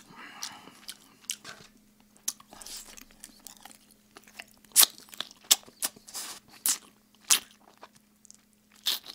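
Close-miked open-mouth chewing and biting of oven-roasted chicken: a run of wet smacks and bites, loudest in the middle. This is the deliberate loud smacking (쩝쩝 sounds) of a mukbang.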